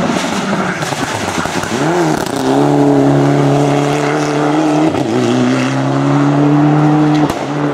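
Race car engine in a hillclimb run. About two seconds in it gives a quick rev up and down. It then holds loud, steady high revs with a brief drop about five seconds in, and cuts off sharply near the end.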